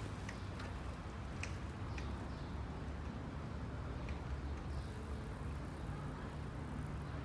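Steady low rumble of a bicycle ride, with a few faint clicks scattered through it.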